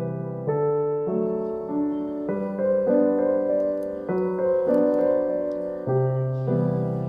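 Background music: a slow, gentle solo piano piece, notes and chords changing about every half second.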